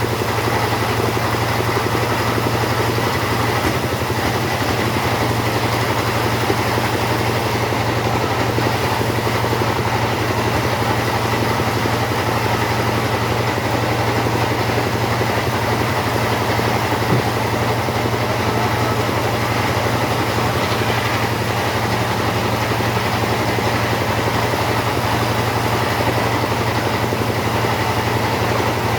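Two-stroke chainsaw engine running at a steady, unchanging speed.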